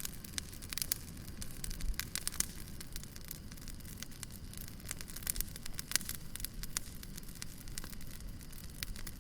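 Wood fire burning in a fireplace: irregular crackles and pops scattered all through, over a low steady rumble of the flames.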